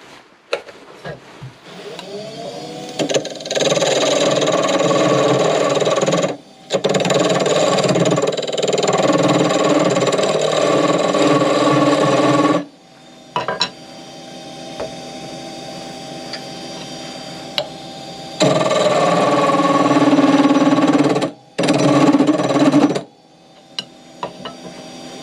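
Wood lathe spinning up, a turning tool cutting the spinning ash blank in four long passes with a steady motor hum between them, then the lathe spinning down near the end.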